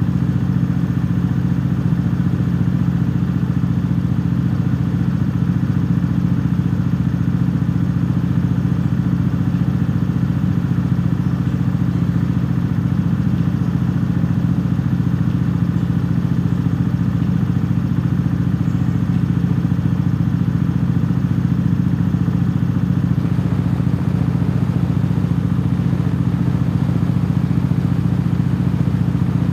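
Cruiser motorcycle engine running steadily at cruising speed, heard from the rider's helmet, with no change in revs.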